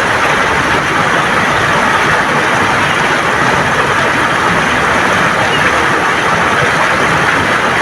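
River water flowing and gurgling over smooth stones: a steady rushing that holds even throughout.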